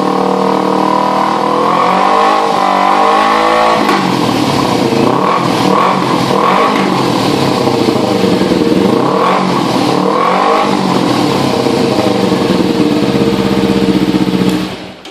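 Kawasaki Ninja 250 motorcycle engine running through a Yoshimura aftermarket exhaust, idling and then revved up and down several times, stopping abruptly near the end.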